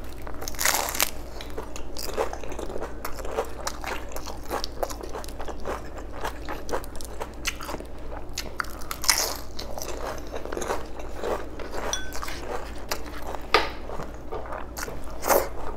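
Crunching and chewing of a fried vegetable spring roll (lumpiang gulay), a dense run of crackly bites and chews. Sharper, louder crunches come about a second in, around nine seconds in, and near the end.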